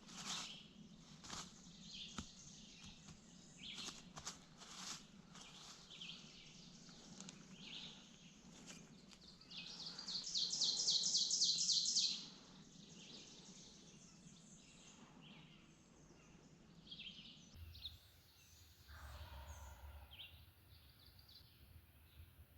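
Songbirds chirping and singing, with one loud, fast trill of evenly repeated high notes, about ten a second, lasting about two seconds midway.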